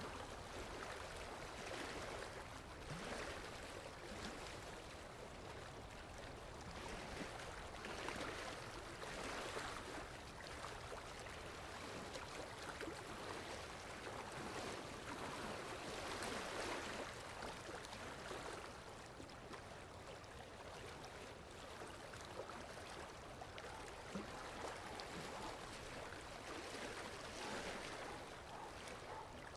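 Moving water: a continuous rushing and splashing that swells and eases every few seconds.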